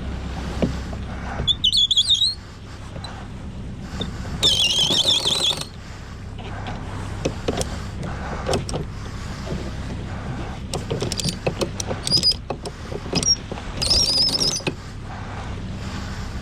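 Headsail being hoisted by hand: three bursts of high wavering squeaks from the halyard gear, with scattered clicks and knocks. Under it is the steady low hum of the boat's engine running.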